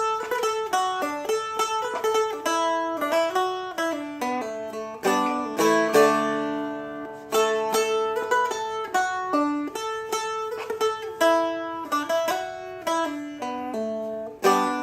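Seagull Merlin M4, a four-string mountain dulcimer-style strumstick, played as a run of plucked melody notes over a ringing open drone. Each note starts sharply and fades, a few notes a second, working through the song's melody line.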